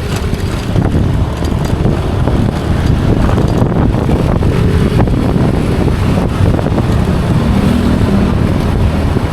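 Wind buffeting the microphone over the steady engine and road noise of a moving vehicle, heard while riding along.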